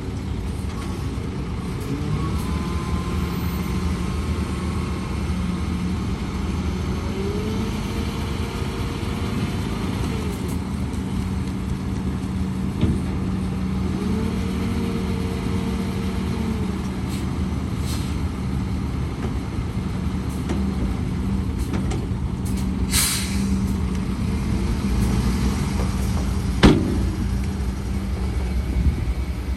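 Heavy diesel earthmoving machinery running steadily, its pitch rising and falling twice as it works. A short hiss of air comes about 23 seconds in and a sharp knock about 27 seconds in.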